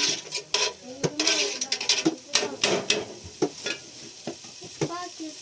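Irregular clicks and knocks over a steady hiss, thinning out after about four seconds, with brief children's voices in between.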